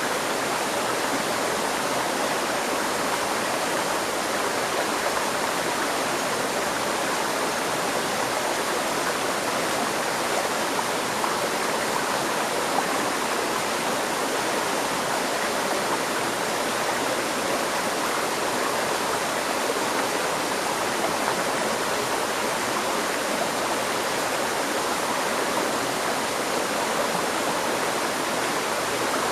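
A river stream flowing, a steady rushing of water with no pauses or changes.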